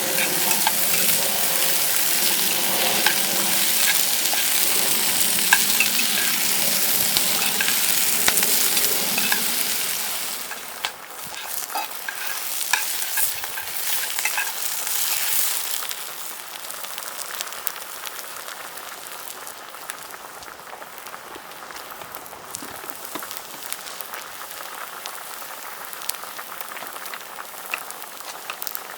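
Food sizzling in a frying pan, with scattered small clicks and ticks. The sizzle is loud for about the first ten seconds, then drops off, and is quieter still from about halfway through.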